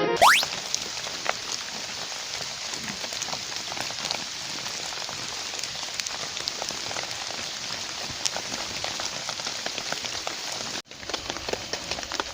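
Steady rain falling, an even hiss full of small drop ticks. The sound drops out for a moment about eleven seconds in, then carries on.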